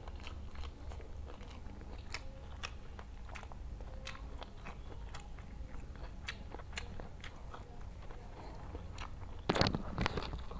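Close-miked eating sounds: a person chewing jengkol balado (dogfruit in chili sauce) with rice, with many small wet clicks and smacks of the mouth. Near the end comes a louder bite as another handful goes into the mouth. A steady low hum runs underneath.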